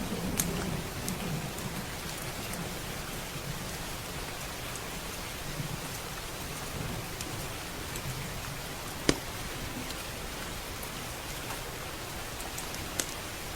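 Steady heavy rain, with a low rumble of thunder dying away in the first few seconds. A few sharp crackles from a wood fire pop through, the loudest about nine seconds in.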